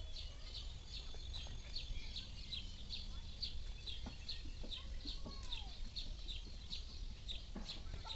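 A small animal calling with short, high chirps repeated evenly, about three a second, over a low rumble of wind on the microphone.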